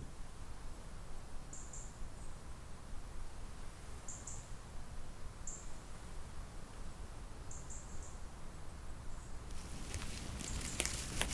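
A small bird gives short, very high peeps every second or two over a low rumble of wind. Near the end a run of crisp crackling clicks starts.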